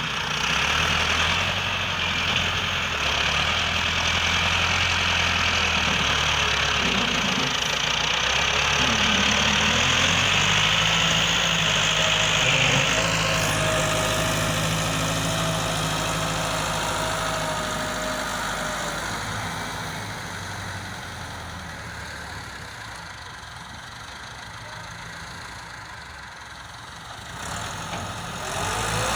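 Tractor engines running hard and steadily, the engine note shifting now and then. The sound eases off in the latter half, then an engine revs up sharply at the very end.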